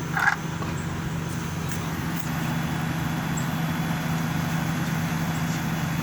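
Midea MDV 24,000 BTU DC inverter ductless air conditioning system running on its commissioning test, a steady low hum. A short higher-pitched sound cuts in briefly near the start.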